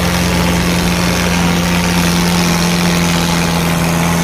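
Tractor diesel engine running loudly at a steady, unchanging pitch.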